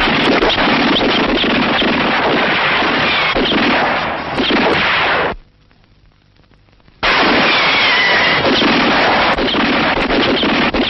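A loud, dense clatter of rapid sharp cracks and impacts on an old film soundtrack. It drops away for about a second and a half in the middle, then resumes.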